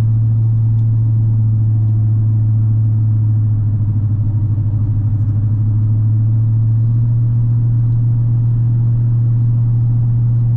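Chevrolet Suburban engine running steadily, heard from inside the cab as a low, even hum that shifts slightly higher about seven seconds in.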